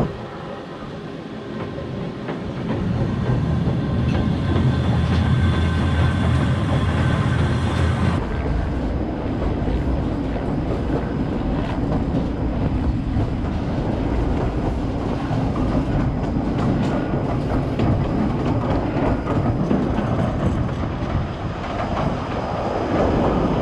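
Kurobe Gorge Railway narrow-gauge train running, heard from inside an enclosed carriage: a steady rumble of wheels on rails with faint clicks, quieter for the first couple of seconds and then louder.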